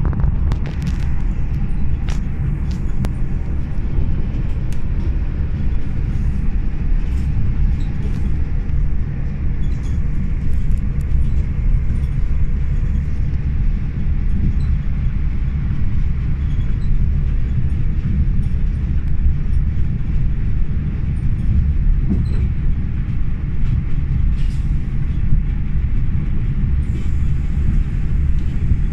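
Passenger train running at speed, heard from inside the carriage: a steady low rumble of the wheels on the track, with short clicks now and then.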